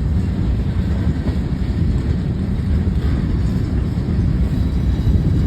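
Freight train cars rolling past at close range, a steady low rumble.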